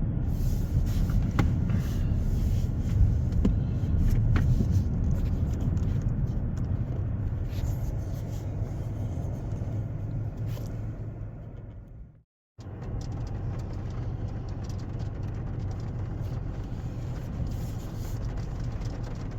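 Road noise of a car being driven, heard from inside the cabin: a steady low rumble with scattered light ticks. It eases off, cuts out completely for a moment about twelve seconds in, then carries on steadily.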